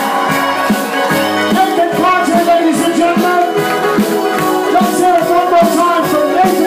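Live country band playing with a steady beat, a melody line over held chords.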